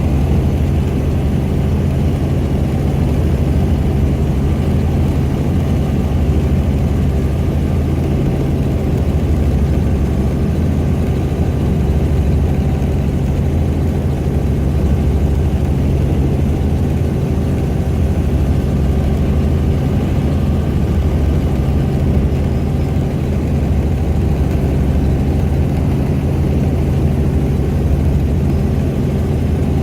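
Helicopter engine and rotor noise heard from aboard the aircraft in flight: a loud, steady drone with a low hum of even tones that does not change.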